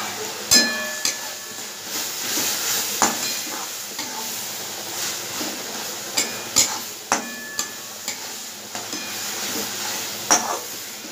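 Onion-tomato masala sizzling in oil in a kadai while a metal spatula stirs and scrapes through it, with several sharp clinks of the spatula against the pan.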